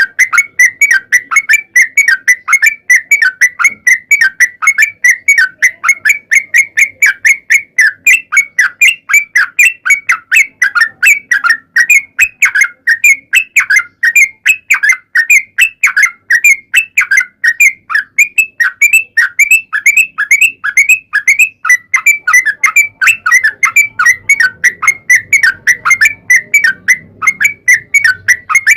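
Yellow-vented bulbul (trucukan) singing a long, unbroken run of rapid repeated notes, about four or five a second, loud and without a pause.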